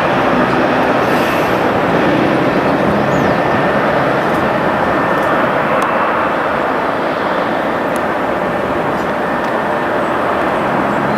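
Jet airliner's engines making a loud, steady rushing noise that eases slightly in the second half.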